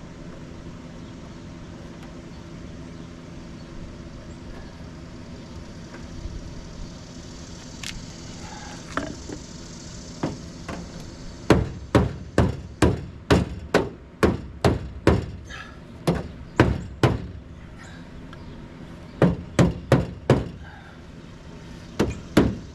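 Hand hammer blows, struck about twice a second in a run of a dozen or so, then two shorter groups of a few blows near the end, over a steady low hum.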